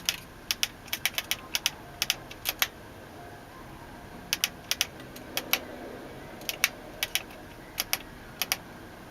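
Dashboard control buttons of a 2007 Nissan Murano being pressed to step through the display menus: sharp, irregular clicks, often in quick pairs.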